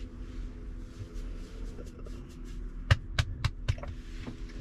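A quick run of about five sharp knocks or taps a little under a second long, about three seconds in, over a steady low hum.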